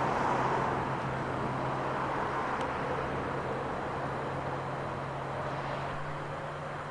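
Road traffic noise: a vehicle going by, loudest at the start and fading away, over a steady low hum.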